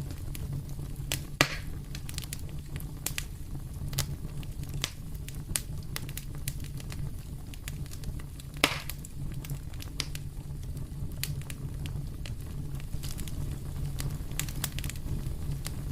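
Wood fire crackling in a fireplace: a steady scatter of sharp snaps and pops, two of them louder, about a second and a half in and near the middle, over a low steady hum.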